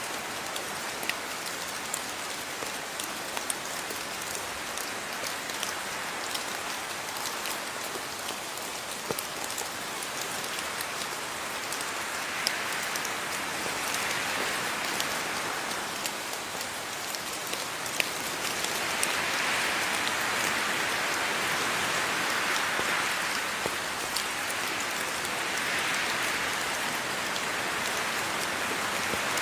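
Steady rainfall with many individual drops ticking on a surface, swelling a little louder from about halfway through.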